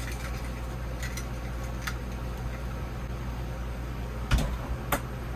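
Truck camper's entry door being shut and locked: a few light clicks, then a loud thump a little past four seconds in and a smaller knock just before the end, over a steady low hum.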